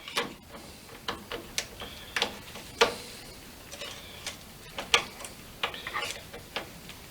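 Irregular sharp metallic clicks and clinks from a wrench working a 12 mm bolt on a motorcycle exhaust mount, with the muffler hardware knocking as it is handled.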